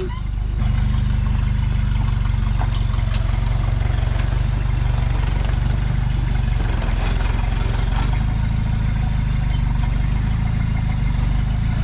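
Toyota Hilux turbo diesel engine running steadily at low revs while rock crawling, stepping up a little about half a second in. A few light clicks and knocks sound over it.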